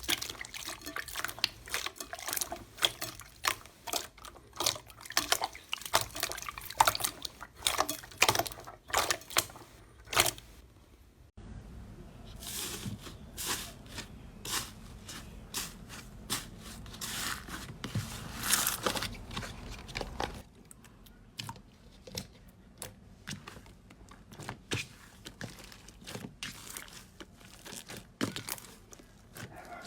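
Slime being squeezed, poked and stretched by hand: a dense run of wet clicks, pops and crackles, changing character where one clip gives way to another about a third and two thirds of the way through.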